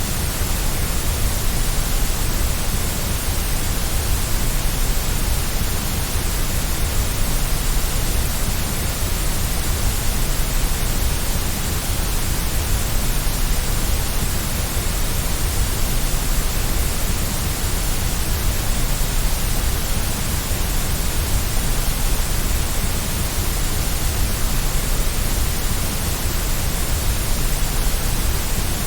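Steady, unchanging white noise hiss, with a strong low rumble under it, played to lull a baby to sleep.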